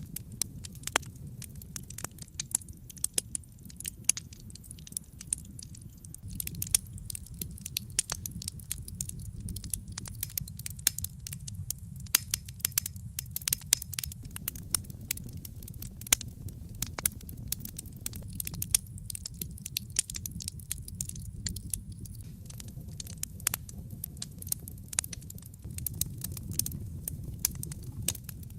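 Wood fire burning in a fireplace, with irregular crackles and sharp pops over a steady low rumble of flames.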